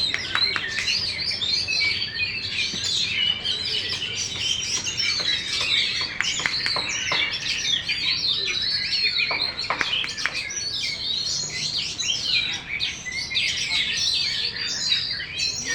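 Oriental magpie-robin (kacer) singing a fast, continuous, varied song of quick chirps, trills and sharp clicks without a break.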